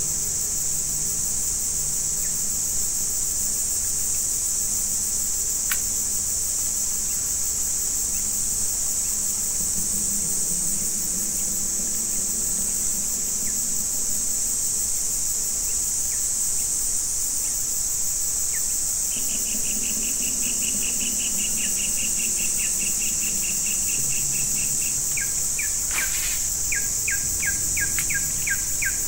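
Steady, high-pitched chorus of insects in swampy forest. About two-thirds of the way through, a fast trill joins in, and near the end a rapid run of short, falling chirping calls follows.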